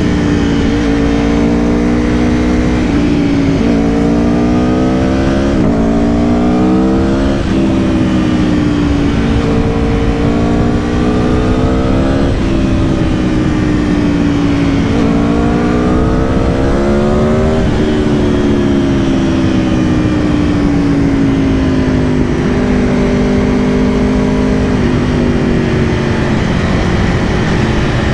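A 2022 Aprilia Tuono V4 Factory's V4 engine heard on board while riding. Revs climb and drop back several times as it shifts up through the gears, hold steady for a while, rise once more, then sink slowly as the bike slows. A low rumble of wind and road runs underneath.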